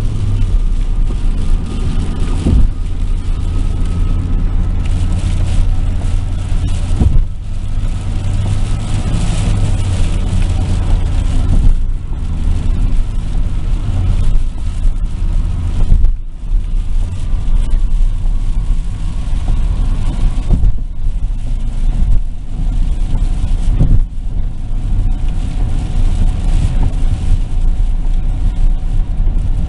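Car driving, heard from inside the cabin: a steady low rumble of engine and tyres on the road, with a few brief thumps.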